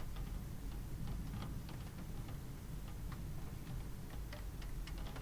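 Gentle rain: scattered drops ticking at irregular intervals over a steady low rumble.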